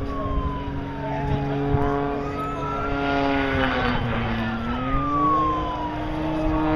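Aircraft engines flying past, several engine tones sliding slowly in pitch: one falls over the first couple of seconds, a lower one dips and rises again around the middle, and another falls in the second half.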